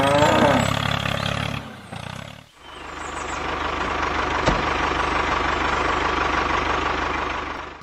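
Small engine of a homemade mini tractor running steadily. The sound drops out briefly about two and a half seconds in, then runs on steadily with a faint high whine.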